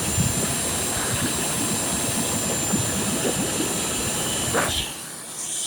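Vacuum cleaner running, a steady rushing of air with a high whine, switched off near the end, its motor winding down.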